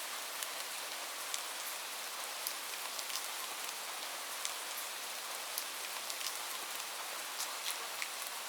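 Light rain falling in a steady hiss, with individual drops ticking sharply several times a second.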